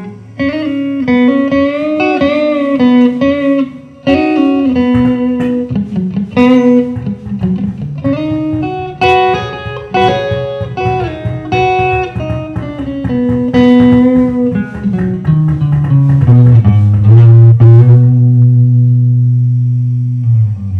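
Guitar music: a run of plucked melody notes over lower bass notes, ending on a long held low note that stops just before the end.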